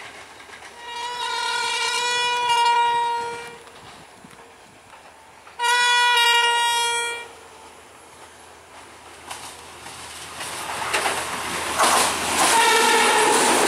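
Diesel multiple unit train horns: two long blasts a few seconds apart. Then a train's engine and wheel noise builds as it approaches and passes, with a third, fainter horn near the end.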